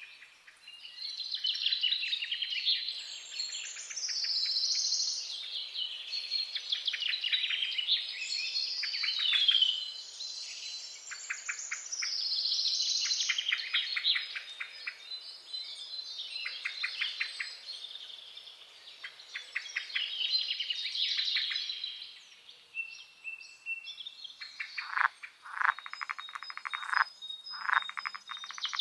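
Wild birds calling: chirps, whistled notes that sweep down and back up, and fast rattling trills follow one another without pause. In the last few seconds, lower rattling calls come in short bursts.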